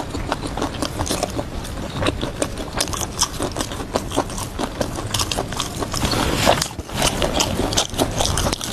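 Close-miked eating: a person biting and chewing food, with many quick irregular crunches and wet mouth clicks.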